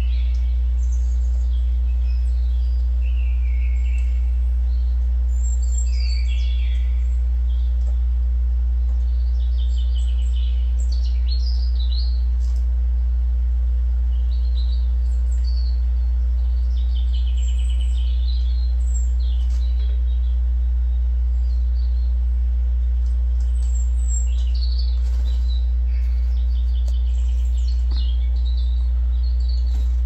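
Small songbirds chirping and twittering in short, scattered calls and trills over a loud, steady low hum.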